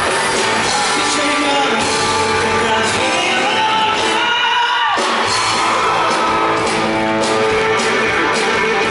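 Live rock band playing with a lead vocal: singing over electric guitar, bass, keyboards and drums. A little past the middle, the bass and drums drop out for about half a second, then the full band comes back in.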